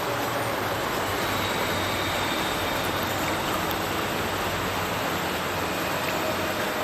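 Water of the Stirches Burn falling from its culvert into the River Teviot, a steady rushing splash.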